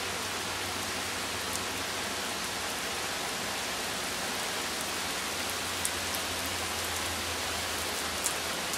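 Heavy rain pouring down in a steady, even hiss, with a few sharper drop hits standing out now and then.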